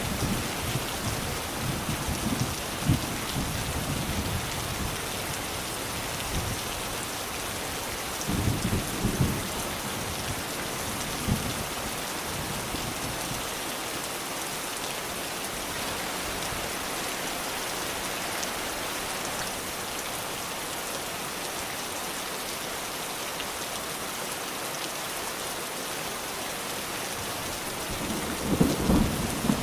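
Steady rain falling, with rolls of thunder rumbling low in the first few seconds, again about eight seconds in, and swelling once more near the end.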